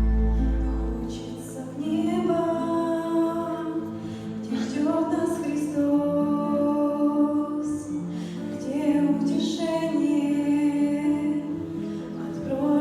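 A women's vocal trio singing a slow song with long held notes in harmony. A deep low note from the backing fades out about a second in, just before the voices come in.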